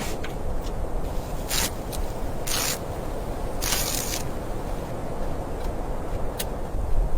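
Steady wind rumble, with three short scraping sounds in the first half.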